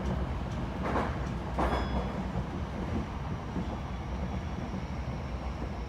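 Tokyo Metro 10000 series electric train running at speed, heard from inside the passenger car: a steady low rumble of wheels on rail, with two short rattles about one and two seconds in.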